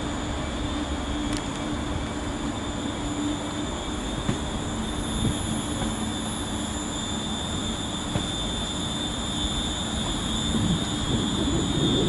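Passenger train running through a railway station: a steady rumble of the train with a low hum and a high, steady whine. Near the end a louder rumble builds up.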